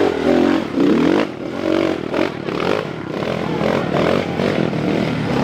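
Motocross bike engine revving hard, its pitch rising and falling again and again.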